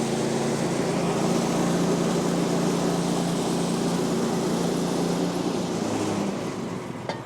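Gas engine of a Woodland Mills HM126 portable bandsaw sawmill running steadily. About six seconds in it drops in pitch and level as it winds down.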